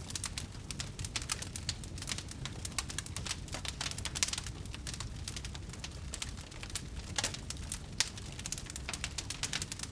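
Wood fire burning in a fireplace, crackling with frequent irregular pops over a low steady rumble, with one sharper pop about eight seconds in.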